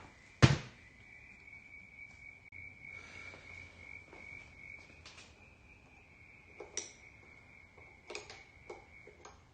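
Hand tools clinking on metal while the carburetor nuts are undone on a Fiat 500 engine: one sharp clank about half a second in, then a few lighter clicks near the end. A steady high-pitched whine sounds throughout.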